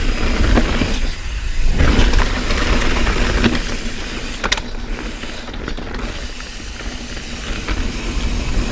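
Evil Following MB 29er trail bike being ridden over rough, slippery trail: the rear hub freewheel clicks while the chain and frame rattle over the bumps, with scattered sharp knocks and a steady hiss.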